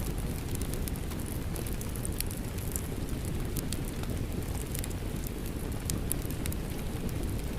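Rain mixed with a crackling wood fire: a steady low rumble with frequent sharp pops and crackles scattered throughout.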